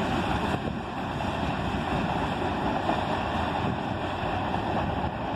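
Freight cars of a CSX manifest train rolling away on the rails: a steady rush of steel wheels on track.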